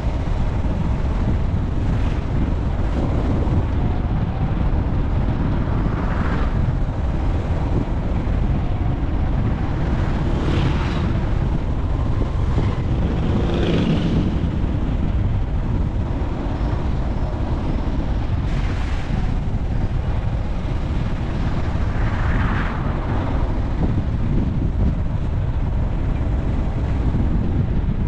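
Steady low rumble of a moving vehicle with wind blowing on the microphone, and a few brief swells of hiss.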